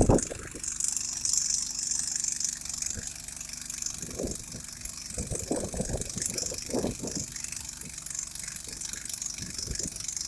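An engine idling under a steady hiss, with a few louder knocks and rattles about halfway through.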